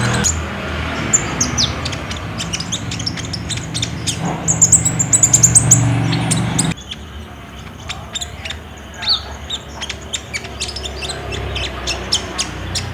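Olive-backed sunbird (kolibri ninja) song: sharp, high chirps with a fast run of high trilled notes about four to six seconds in. A low hum underneath stops abruptly about seven seconds in.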